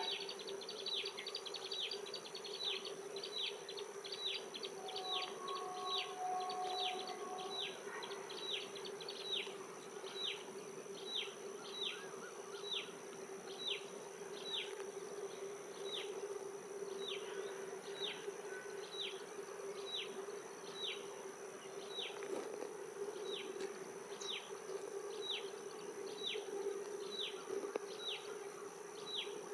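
Outdoor animal ambience: a steady insect-like buzz under a short, high, falling chirp that repeats regularly, about three every two seconds.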